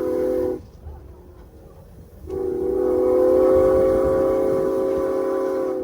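Steam whistle of Norfolk & Western No. 475 blowing for a grade crossing, several notes sounding together. A long blast cuts off about half a second in, and after a short gap a second long blast sounds for over three seconds.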